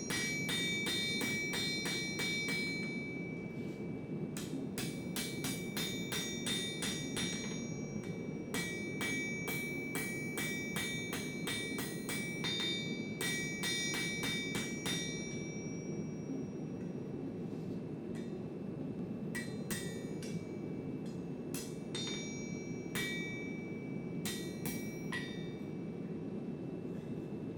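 Blacksmith's hammer striking hot steel on an anvil, each blow leaving a bright metallic ring. The blows come in quick runs through the first half, then fewer, spaced-out strikes. A steady low rushing noise runs underneath.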